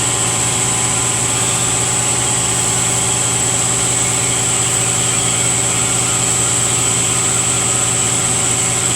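Steady machine hum of shop equipment, with an even high whine above it and no change throughout.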